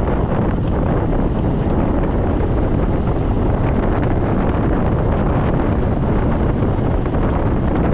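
Steady wind rush buffeting the microphone of a scooter rider at speed, with the scooter's running noise blended in underneath.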